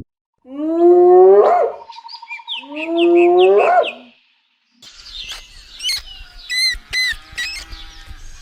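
Two loud, drawn-out animal calls that rise in pitch, with small birds chirping behind them. After a brief silence a different recording starts: birds chirping in quick, sharp notes.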